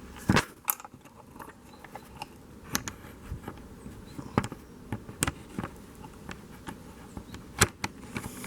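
Scattered clicks and knocks of a camera being handled and set on a small tripod, the loudest about half a second in and again near the end.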